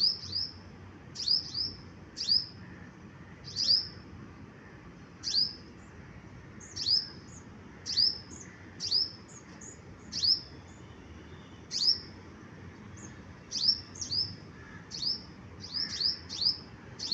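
A bird repeating short, high chirps. Each is a quick note sliding downward, coming about once a second, sometimes two or three close together.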